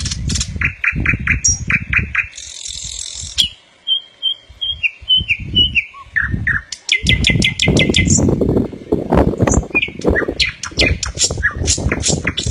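Birdsong: several birds chirping, with runs of short repeated notes, quick trills and a higher buzzy note. Irregular low thumps and rumbles run underneath, loudest in the second half.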